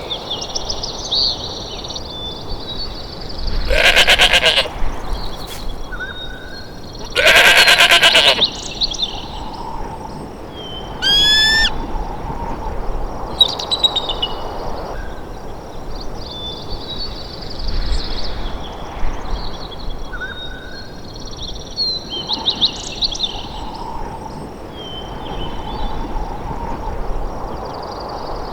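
Two loud, wavering animal calls, about four and seven seconds in, then a short rising call near twelve seconds, over many small bird chirps.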